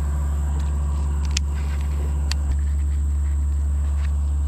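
A small motor running steadily with an even low hum, and a few faint clicks.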